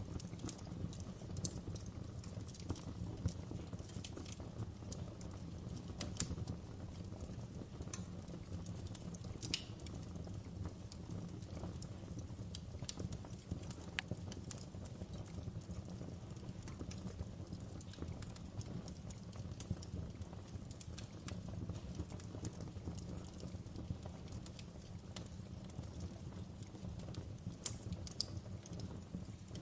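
Wood fire burning in a fireplace: a steady low rumble of flames with irregular crackles and pops, a few of them louder and sharper.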